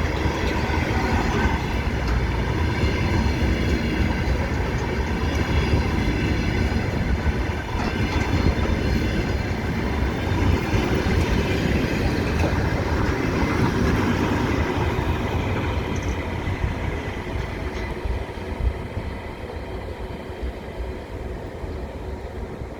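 Train rolling along the rails with wheels clattering, a steady heavy rumble that fades away over the last several seconds.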